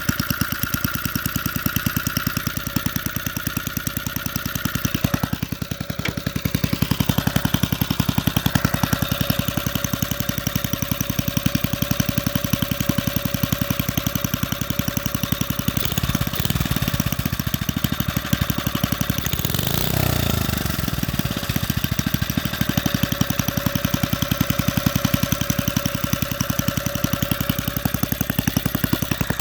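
Briggs & Stratton single-cylinder engine running at a low idle, its separate firing strokes heard as a rapid, even beat, just after its head was pulled and the carbon cleaned out. The beat changes briefly about six seconds in and again around twenty seconds.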